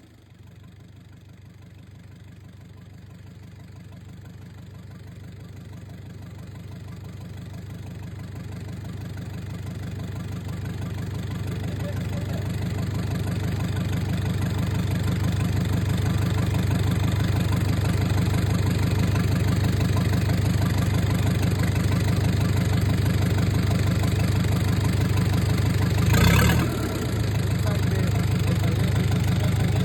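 Kia J2 2.7-litre diesel engine idling steadily, growing louder over the first fifteen seconds or so. Near the end it gives one quick rev that rises and falls before settling back to idle.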